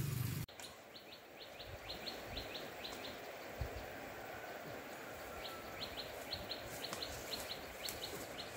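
A small bird calling in two runs of quick, high chirps, several a second, over a faint steady outdoor background, with a few faint rustles and ticks.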